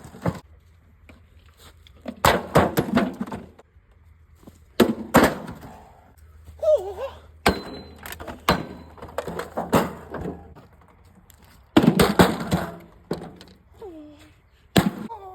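Repeated heavy blows struck on a mini fridge's cabinet: about six bursts of thuds and crunching impacts, a second or two apart.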